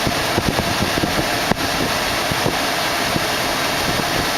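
Steady rush of a 2008 Chevrolet Tahoe's climate-control fan blowing through the vents, over its 5.3-litre Vortec V8 idling, heard inside the closed cabin. A sharp click sounds about a second and a half in.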